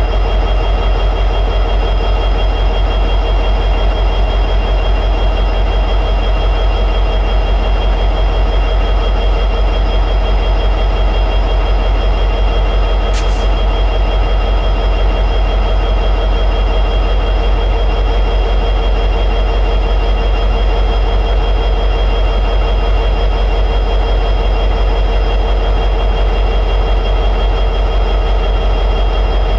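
EMD 710G3B two-stroke V16 diesel prime mover of an SD60E locomotive running steadily at high idle.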